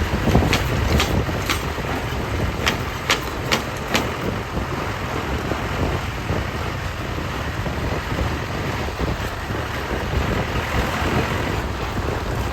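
Tractor diesel engine running steadily, with a string of sharp clicks in the first four seconds.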